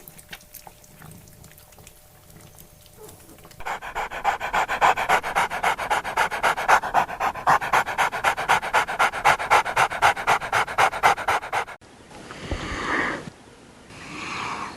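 A dog panting hard in a quick, even rhythm for about eight seconds, starting a few seconds in after a quieter stretch. The panting cuts off suddenly, and two short grunting calls from another animal follow near the end.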